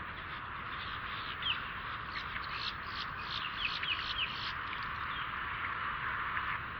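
Birds giving quick, short chirps and calls, with a flurry of them in the middle, over a steady hiss.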